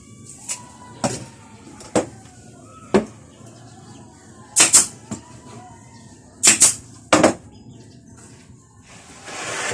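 A series of sharp knocks at an uneven pace, about nine in all, the loudest coming in quick pairs midway through, followed near the end by a rising hiss.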